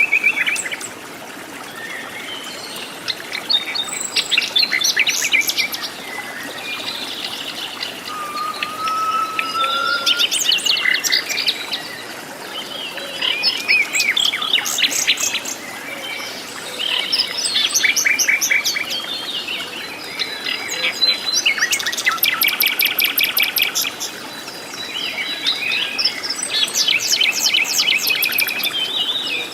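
Several birds calling and singing together in tropical rainforest: overlapping chirps, fast trills and rapidly repeated notes, over a steady background of insects.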